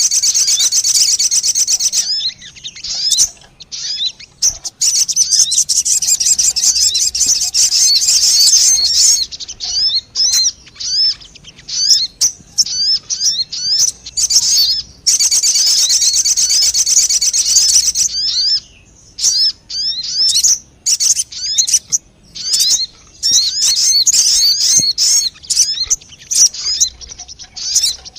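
Sogon bird calls from a lure recording: dense, fast trains of high-pitched chirps, in runs of several seconds broken by short gaps.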